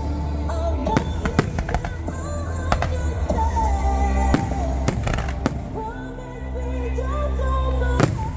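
Fireworks bursting with sharp bangs at irregular intervals, about eight or nine in all, over a song with a heavy bass beat playing throughout.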